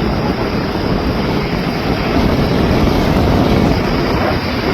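Aircraft engine noise, a steady loud rush without a clear pitch.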